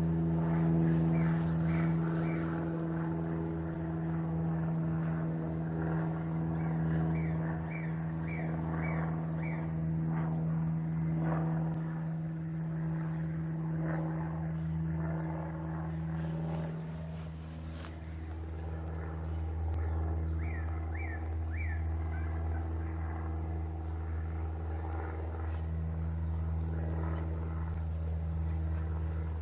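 A steady low mechanical hum, with a few quick runs of three to five short, high rising chirps.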